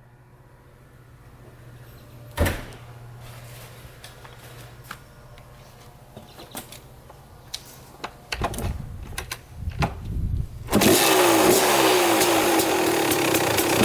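Quiet handling noises, with a sharp knock and a few clicks. Then irregular kick-start strokes, and about eleven seconds in a 1995 Kawasaki KX250's single-cylinder two-stroke engine fires and keeps running loudly, its pitch wavering as the idle settles.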